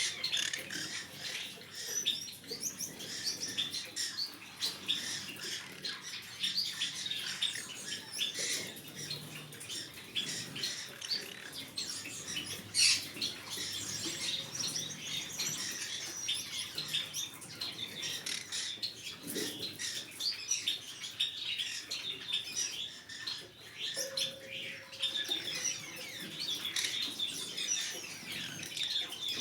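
Green-cheeked conures chirping and squawking: a dense, continuous run of short high chirps, with a louder squawk about halfway through.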